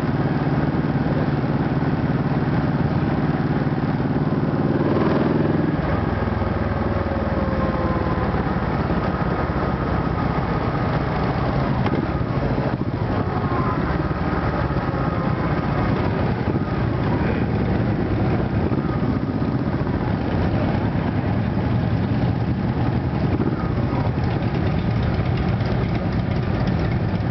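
Honda Shadow ACE Tourer V-twin motorcycle engine running at low speed in slow rally traffic, mixed with the engines of the touring motorcycles around it. Its steady note changes about five seconds in.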